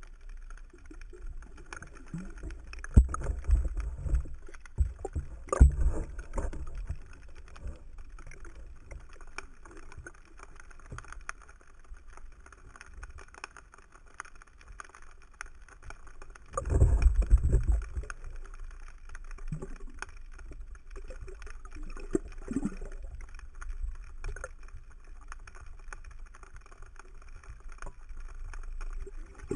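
Small boat on open water with water and wind noise, broken by loud low rumbling bursts about three to six seconds in and again around seventeen seconds.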